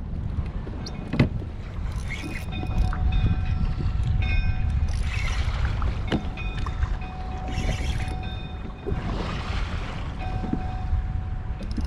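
Wind buffeting the microphone in a low, steady rumble on a kayak out on the water, with a few sharp clicks and short bursts of splashy hiss.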